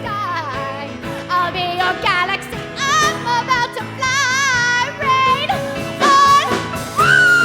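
Pop song with a female singer doing wordless vocal runs with vibrato over a backing track; a long high note begins near the end and is held.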